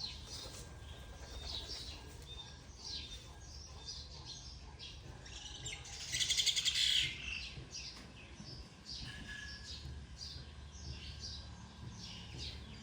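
Small birds chirping repeatedly, with a louder, rapid buzzy trill lasting about a second midway through, over a faint low steady hum.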